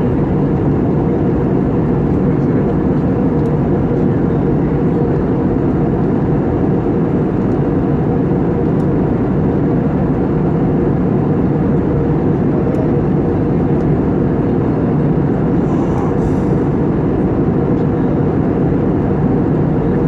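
Steady roar of a jet airliner heard from inside the passenger cabin: engine and airflow noise, deep and unchanging.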